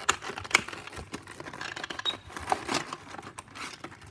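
Cardboard and plastic packaging of a boxed scale model airplane being handled and opened: rustling with sharp clicks and taps, two of the sharpest in the first second.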